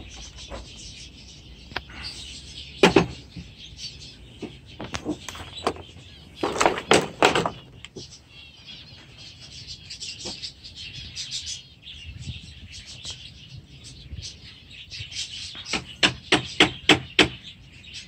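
Small birds chirping and chattering continuously, with louder sharp calls now and then and a quick run of them near the end.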